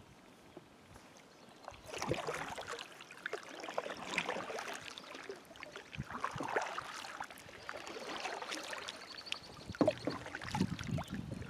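Kayak paddle strokes in the water, a splash and drip about every two seconds, beginning about two seconds in.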